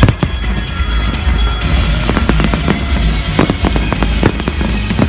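Fireworks display: a string of sharp bangs and crackling shell bursts over a low rumble, getting denser from about a second and a half in. The display's soundtrack music plays loudly underneath.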